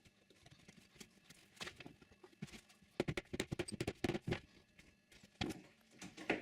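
A run of quick, sharp knocks, about eight or more packed into a second and a half, with a few scattered taps before and two more near the end, as wooden workpieces are handled and tapped together at the bench.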